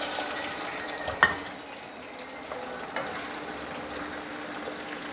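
Potato pieces sizzling in hot oil just after being tipped into the pan, a steady frying hiss. A sharp knock about a second in and a lighter one near three seconds come as a wire skimmer stirs them.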